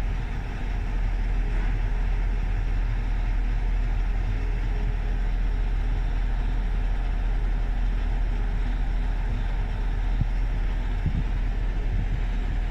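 A GMC vehicle's engine idling steadily with a low, even rumble.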